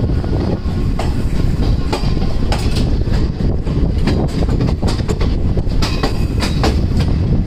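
Passenger train running along the rails into a station: a steady low rumble with irregular sharp clicks from the wheels over rail joints.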